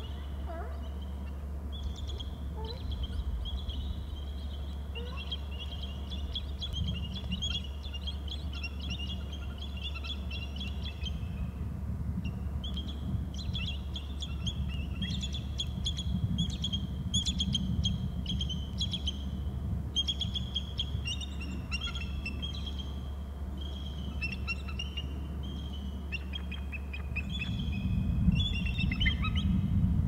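Birds chirping and twittering in long runs of quick, high notes, with a short pause about twelve seconds in. Underneath is a steady low rumble that swells near the end.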